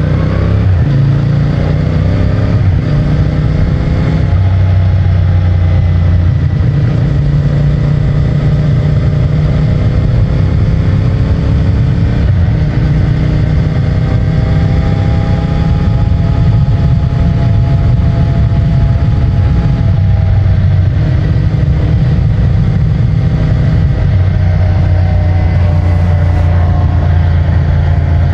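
CFMOTO 450MT motorcycle's parallel-twin engine through its stock exhaust, heard while riding. It rises in pitch under acceleration at the start, then runs at steady road revs with gentle rises and falls as the throttle changes.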